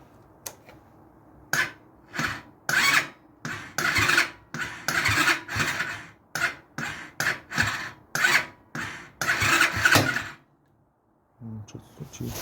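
A BSE PH10 125 pit bike's electric starter cranks the engine in a long string of short presses, about fifteen, several lasting close to a second, with gaps between them. The engine never settles into steady running. This is the start test after new starter-chain tensioners were fitted; the old ones had come off and caused a knocking when starting.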